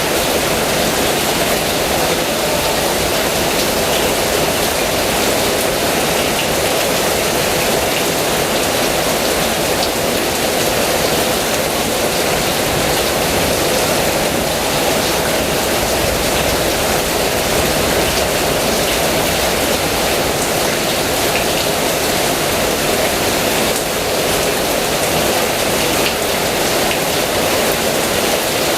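Heavy rain falling steadily: a dense, even hiss of downpour with no let-up.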